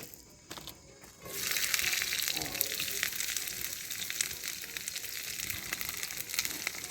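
After a few light clicks, chopped onions and sweet peppers hit hot oil in a cast iron skillet about a second in and start sizzling loudly. The frying hiss then holds steady, with sharp crackles of spitting oil.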